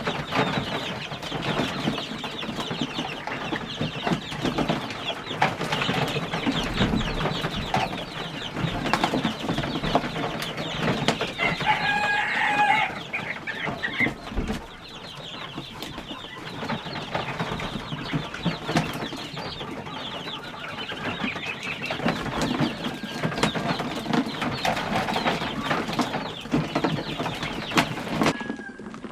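A flock of poultry clucking and calling, many birds at once with calls overlapping continuously.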